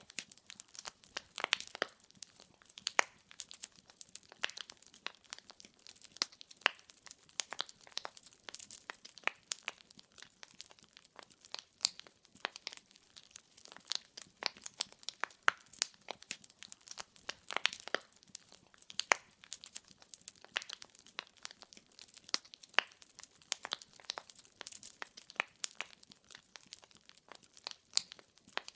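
Firewood logs burning in a fireplace, crackling and popping in many irregular sharp snaps over a soft hiss.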